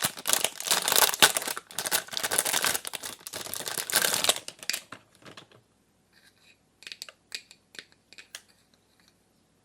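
Packaging being crinkled and torn open in a dense run for about four and a half seconds, then a few light clicks and taps.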